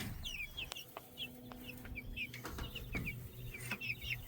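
A brood of week-old Cornish Cross meat chicks peeping, many short falling peeps overlapping one another, with a few faint taps.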